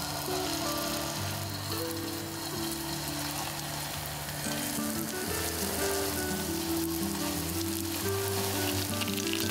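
Food frying in hot fat: a steady sizzle with fine crackling that grows a little busier in the second half.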